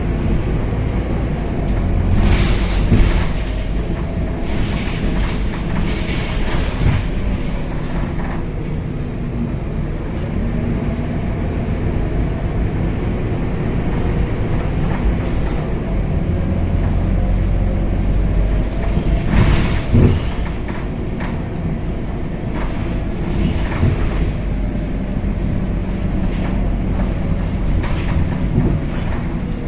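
Cabin sound of a Scania K270UB city bus on the move: the diesel engine and drivetrain running with a steady rumble and a whine that rises and falls with speed, plus body rattles. A few short hissing bursts cut in, the loudest about two to three seconds and twenty seconds in.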